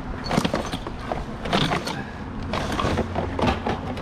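Scrap items in a rubbish pile being rummaged through and shifted by hand: irregular knocks, clatters and creaks.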